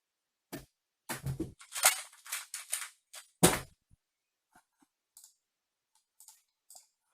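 Rapid plastic clacking of a 2x2 Rubik's cube being turned for about two seconds, then a single sharp knock, followed by a few faint light clicks.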